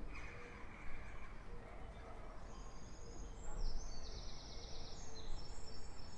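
A songbird singing a run of high phrases, including a fast trill, starting about two seconds in, over a steady low rumble of distant street traffic.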